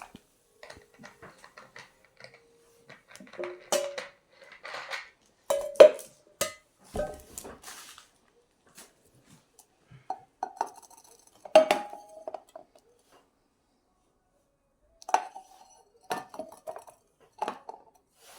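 Dishes and cutlery clattering and clinking in irregular bursts, some strikes ringing briefly like metal or crockery; a quiet pause about two thirds of the way through.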